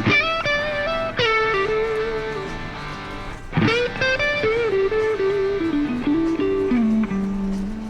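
Background music: electric guitar playing bluesy phrases, with struck chords about a second in and again midway, followed by bending single notes that step down to a held low note.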